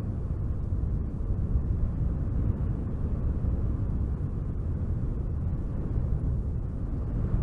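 Wind blowing hard, a steady deep rush that wavers a little in strength.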